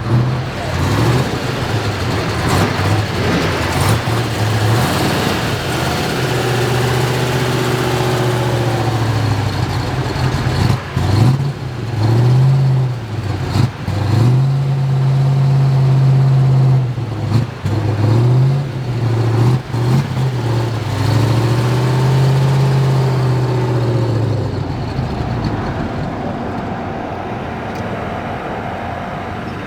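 The 1970 Ford Mustang Boss 429's 429 cubic-inch V8 being revved over and over, its pitch swelling up and falling back in long, drawn-out revs mixed with several quick throttle blips. It settles back toward a steadier, lower idle over the last few seconds.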